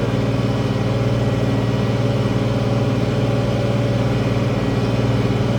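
International 1566 tractor's six-cylinder diesel engine running steadily at an even pitch.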